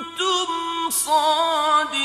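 Male voice chanting Qur'an recitation in the melodic tajweed (mujawwad) style, holding long drawn-out notes with wavering ornaments, with short breaks between phrases.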